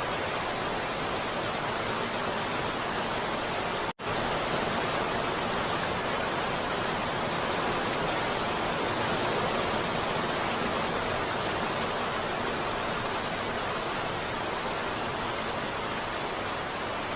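Heavy rain falling, a dense steady hiss without distinct drops or thunder. The sound cuts out for a split second about four seconds in, then resumes at the same level.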